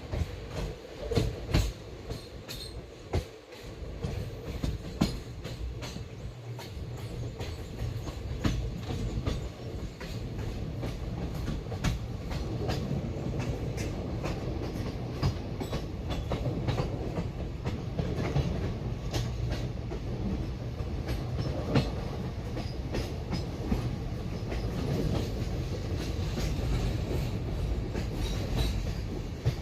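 Moving passenger train: the wheels clatter over rail joints with a steady rumble and many sharp clacks. The clacks are loud and scattered at first, then settle into a steadier, louder rumble a few seconds in.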